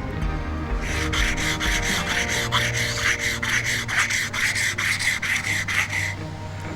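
A steel kanna (Japanese plane) blade rubbed rapidly back and forth on an abrasive surface, about four strokes a second, as its back or bevel is flattened; the strokes start about a second in and stop near the end, over background music.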